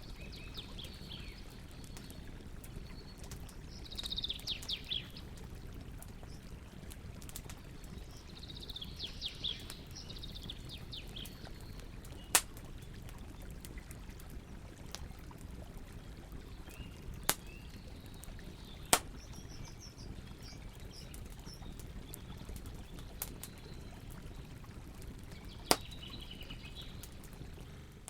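A campfire burning with a steady low rush and a few sharp, isolated crackling pops, while birds sing in short chirping phrases about four seconds in, around ten seconds, and near the end.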